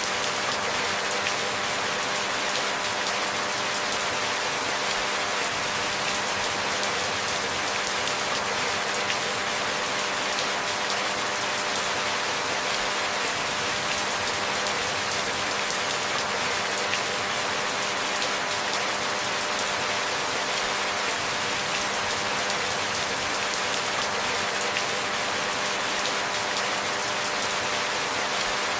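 Steady rainfall, a dense even hiss of drops with no thunder and no changes in strength.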